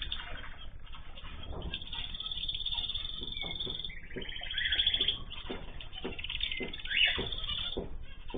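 Pet cage birds calling and chattering together, a busy mix of overlapping chirps and trills, with the loudest calls about five and seven seconds in.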